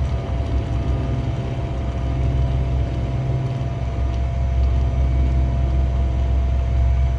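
Smoke machine's air pump running steadily, a constant hum over a low rumble.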